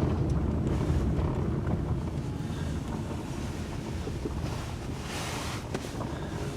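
Car rolling on a gravel driveway, heard from inside: a low rumble of tyres and engine with small crackles from the gravel, quietening as the car slows. A brief hiss about five seconds in.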